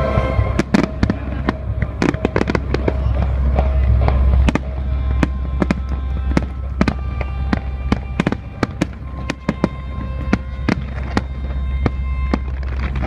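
Fireworks display: many sharp bangs and crackling bursts in quick succession over a steady low rumble, with music playing along with the show.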